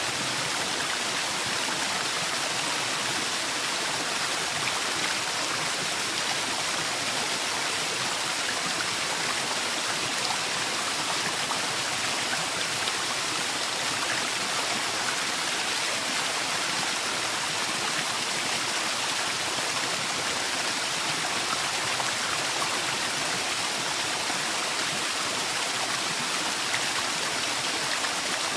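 Forest waterfall pouring steadily, a constant rushing hiss of falling water with fine splashing texture and no change in level.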